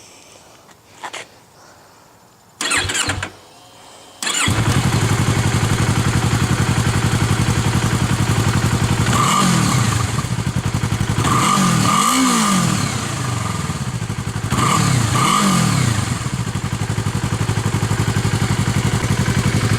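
2015 Yamaha R3's 321 cc parallel-twin engine running with its muffler removed and only the catalytic converter left in the stock pipe: a short burst of cranking about three seconds in, then it catches about four seconds in and idles steadily, with several quick revs up and back down in the middle. Idling, it sounds much like stock; revved, it is louder.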